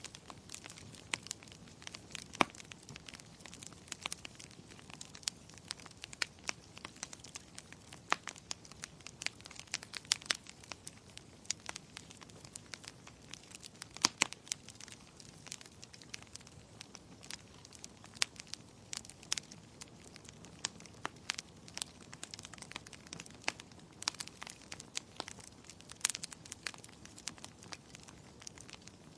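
Firewood burning in a fireplace: irregular sharp crackles and pops over a soft steady hiss, a few of them louder snaps.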